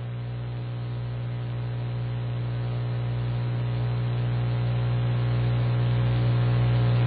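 Steady electrical hum with hiss on a LiveATC air traffic control radio feed between transmissions, growing gradually louder.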